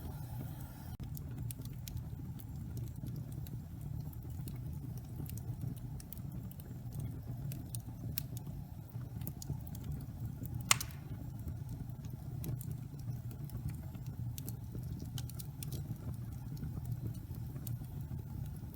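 Wood fire burning in a fireplace: a steady low rumble with scattered crisp crackles, and one loud pop a little past halfway.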